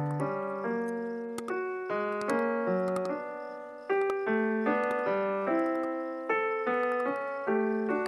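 Background piano music: a melody of struck notes over low chords, each note ringing and fading before the next, with a few faint sharp clicks.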